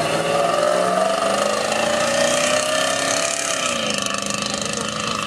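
Tomcat Land Rover-based cross-country rally car's engine accelerating away, its pitch climbing, then dropping at a gear change about three and a half seconds in before climbing again.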